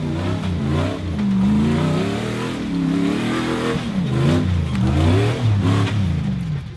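Off-road Jeep engine revving hard, its pitch climbing and dropping again and again as the driver works the throttle on a rock climb.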